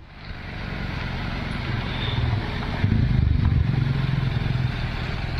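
125cc motorcycle engine running on the move, its pitch shifting with the throttle, with road and wind noise; it builds over the first second and gets louder about three seconds in.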